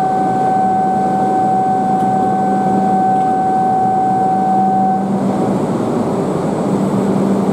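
Tohoku Shinkansen train running along the platform, a loud steady rushing noise with a low hum under it. A steady high tone sounds over it and stops about five seconds in.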